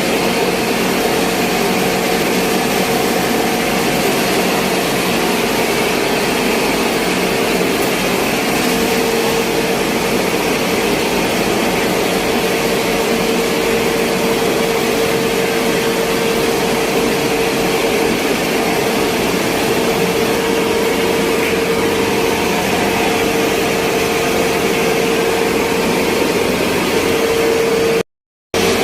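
Electric machinery at a flour mill running steadily: a constant motor hum with a steady mid-pitched tone over it. It cuts out for a moment near the end.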